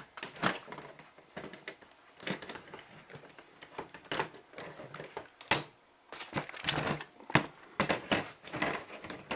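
Irregular hard-plastic clicks and knocks of a Ryobi 18-volt cordless drill and its battery pack being handled and the battery taken out, with no motor running: the drill is dead.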